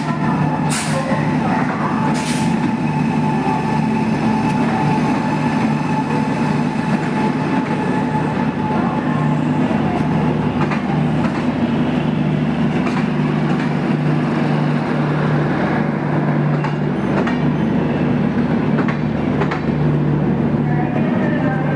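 Gitanjali Superfast Express train running on the rails: a steady, loud rumble with a low hum underneath and scattered sharp clicks.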